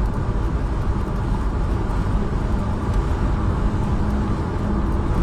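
Steady low rumble of a car on the move: engine and road noise with a faint steady hum.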